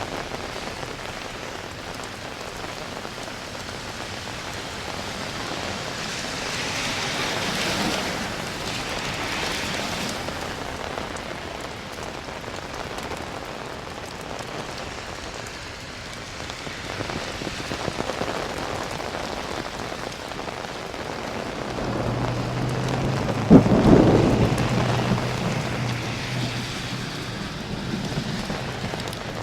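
Steady rain falling on city streets, with a sharp thunderclap about three-quarters of the way through that rumbles as it fades.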